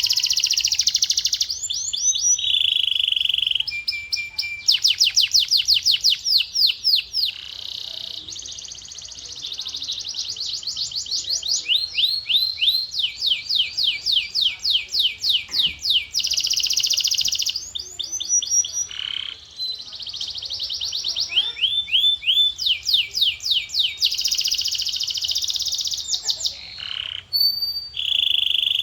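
Male canary singing a continuous song of rapid trills, phrase after phrase of fast repeated notes and sweeping glides, each phrase lasting a few seconds before it changes.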